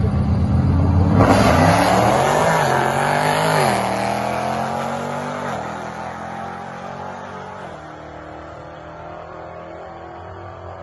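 2017 Dodge Charger R/T with a Whipple-supercharged 392 stroker V8 holding steady revs on the drag strip start line, then about a second in launching at full throttle. The engine climbs in pitch and drops back at each upshift, three or four times, and fades as the car runs off down the quarter mile.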